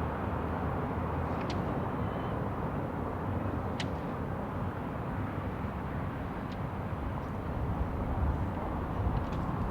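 City street ambience: a steady low rumble of distant traffic, with a few short sharp clicks over it.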